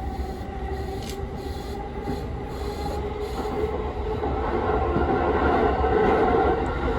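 Commuter train running, heard from inside the car: a steady low rumble of wheels on track with a humming tone, growing louder in the second half.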